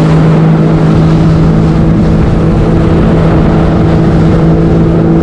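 Jet ski engine running at a steady speed, a loud drone that holds one low pitch without revving.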